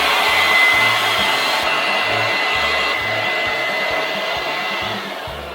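Electric air blower running with a steady rushing noise and a thin whine, forcing air into a large balloon; it eases off near the end.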